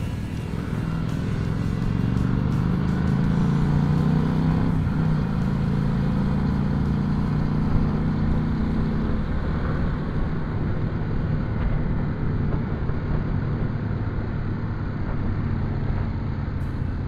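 Motorcycle engine running at road speed, its pitch rising over the first few seconds as it speeds up and then holding steady, with wind rushing over the microphone.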